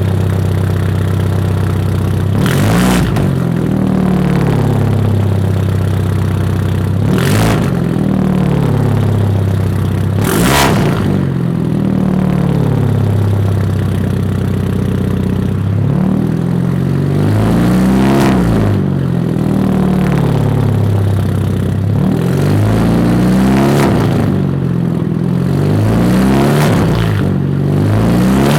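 Turbocharged 2.0-litre four-cylinder engine of a 2013 Hyundai Genesis Coupe 2.0T through a catless 3-inch single-exit exhaust, its revs repeatedly climbing and falling. A few brief sharp cracks stand out along the way.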